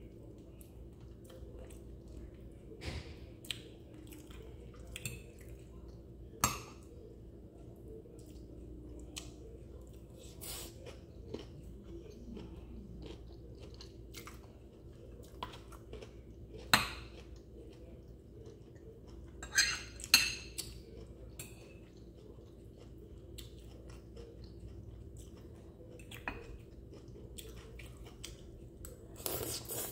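Close-up eating sounds: chewing, with sharp clicks of a metal fork against the plate scattered throughout, the loudest about 17 and 20 seconds in. A faint steady hum runs beneath.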